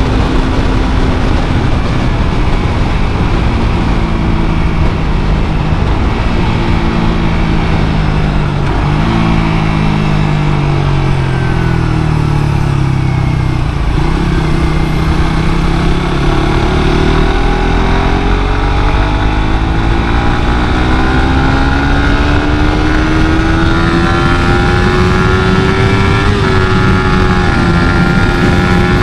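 Suzuki GSX-R150's single-cylinder engine through its stock exhaust while riding. The engine note falls, then climbs in long pulls as the throttle is opened through the gears, with a short drop near the end like a gear change. The whole note sits over a steady low rumble.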